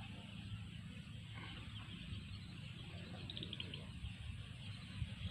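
Faint open-air ambience: a low steady rumble with scattered small bird chirps, including a quick run of chirps a little after three seconds in.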